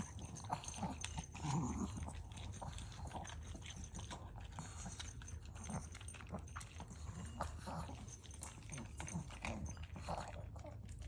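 Maltese dog eating dry kibble from its bowl, fast and continuous, with many short crunches and clicks.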